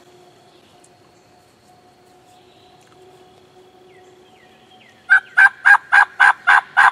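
Turkey call worked by a hunter: a run of about eight loud hen yelps, evenly spaced at roughly four a second, starting about five seconds in. Before it there is only a faint steady insect drone.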